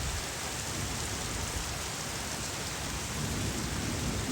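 Rain falling steadily, a continuous even hiss, with a low rumble of thunder underneath.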